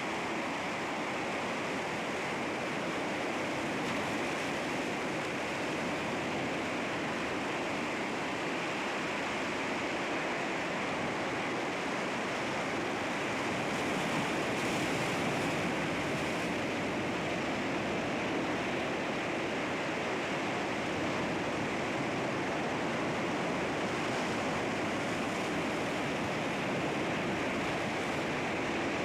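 Sea waves washing against rocks: a continuous rushing wash of surf, swelling a little about halfway through and again near the end.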